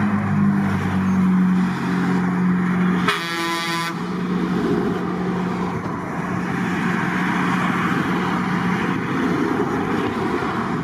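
Trucks' engines running past with a steady low drone, and about three seconds in a truck air horn sounds once, a short blast of under a second.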